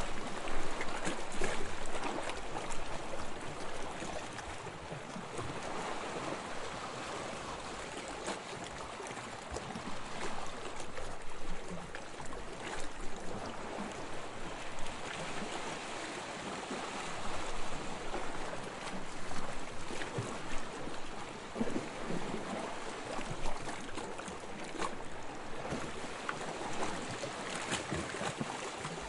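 Small waves lapping on a sandy shore: a steady wash of water with fine fizzing and crackling, swelling gently every few seconds as each wave comes in and draws back.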